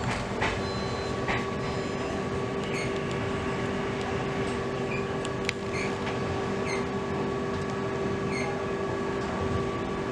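Train running on the rails: a steady rumbling noise with a constant hum, a few sharp clicks, and a series of short high chirps about a second apart.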